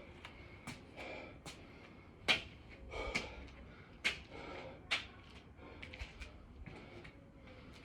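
A man breathing hard from the exertion of continuous six-count burpees: irregular, forceful gasps and exhales, about one every second, a few of them sharp and loud.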